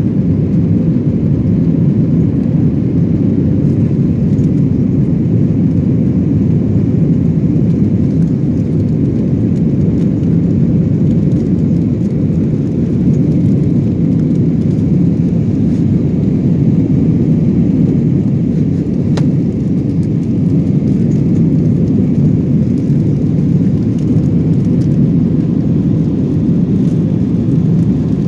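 Airbus A321-200 cabin noise from a rear window seat: a steady, loud low roar of jet engines and airflow, with no change in pitch or level.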